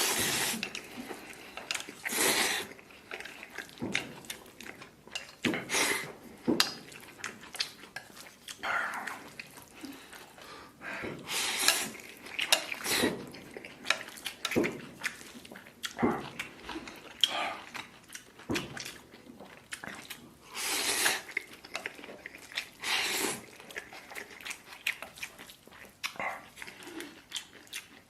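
Close-miked eating of spicy fire chicken instant noodles: irregular chewing, slurping and short sharp breaths, with no steady rhythm.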